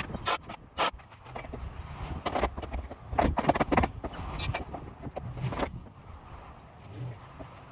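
Irregular knocks and clattering, with a dense run of them about three seconds in.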